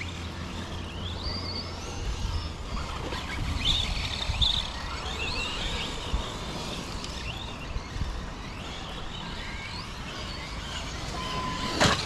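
Several electric RC monster trucks (Traxxas Maxx and Arrma Granite) racing, their brushless motors whining up and down in pitch with the throttle. A sharp knock near the end.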